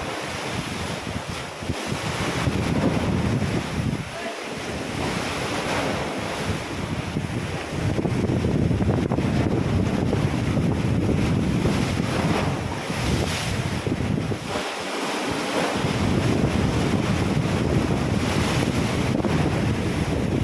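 Ocean surf washing in continuously, with wind buffeting the microphone. The wash swells somewhat louder partway through.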